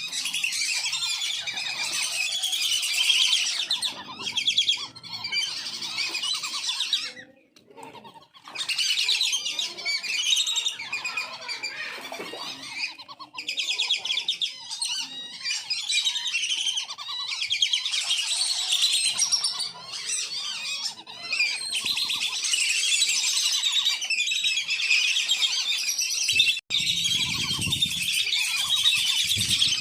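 A flock of wandering whistling ducks calling without pause in high, chattering whistles. The calling drops out briefly about seven seconds in and cuts off for an instant near the end.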